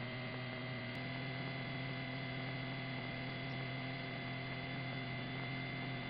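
Steady electrical hum with faint hiss on the police air unit's radio audio feed between transmissions, with a faint click about a second in.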